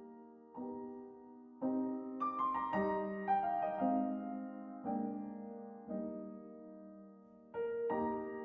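Soft solo piano background music: slow, sustained chords with a short run of higher notes in the middle.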